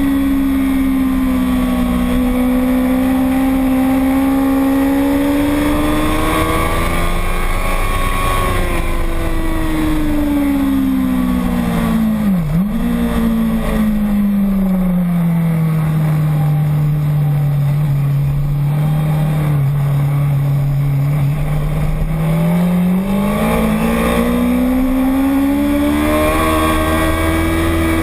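Racing motorcycle engine running continuously on a circuit, its pitch sinking and climbing slowly with the throttle, with one brief sharp dip about twelve seconds in and a long low stretch before it rises again near the end.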